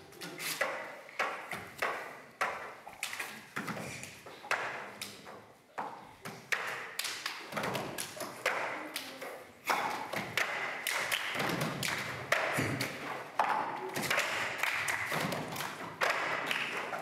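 Irregular thumps and taps of performers moving and stepping about on a stage, with a faint murmur of voices underneath.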